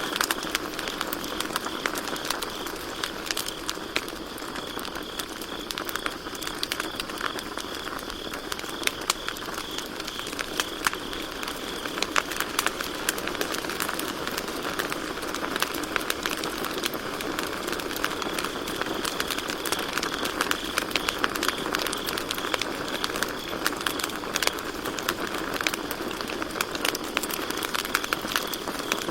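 Campfire crackling with many small sharp pops, over crickets chirping steadily at one high pitch.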